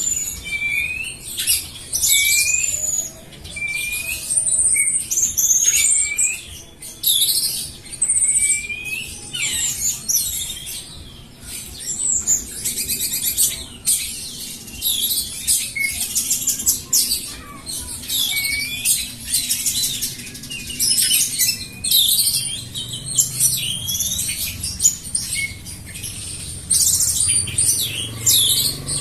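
Songbird singing a rapid, varied song of whistled notes, trills and chirps, many of them short gliding phrases repeated over and over.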